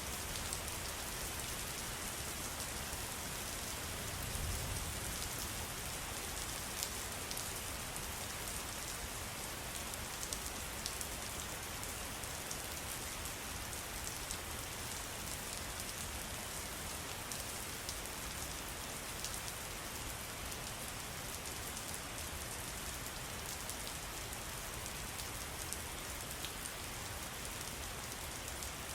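Steady rain falling, a constant hiss sprinkled with many small drop ticks.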